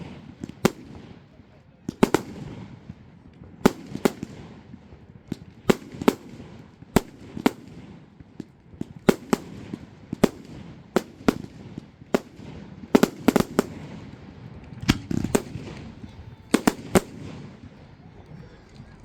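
Display fireworks bursting in the sky: a run of sharp bangs, irregularly spaced at about one or two a second, some in quick pairs, with a low rumble between them.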